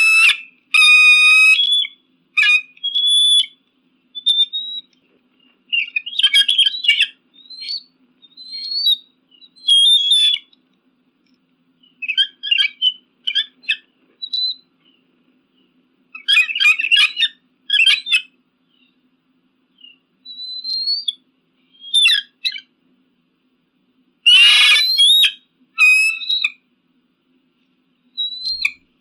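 Eagle calls: bouts of shrill, high-pitched yelps and fast chattering call series, each lasting a second or two, with short silences between. One harsher, louder call comes near the end.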